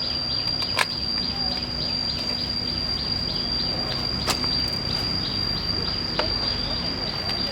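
Insects calling: a steady high-pitched drone, with short falling chirps repeating a few times a second beneath it. A few sharp clicks cut in, about a second in and again around four and six seconds.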